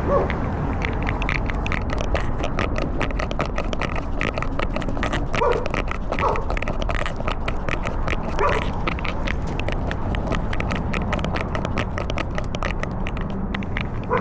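Steady rubbing and rapid clicking on a collar-worn microphone as the animal moves, with a few short animal calls a few seconds apart.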